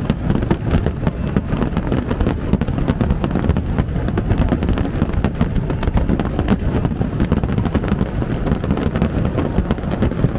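Fireworks barrage: many bangs overlapping in quick succession, with no pause and a heavy low rumble underneath.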